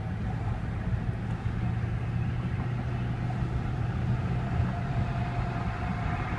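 Steady low rumble of a car's engine and tyres heard from inside the moving car.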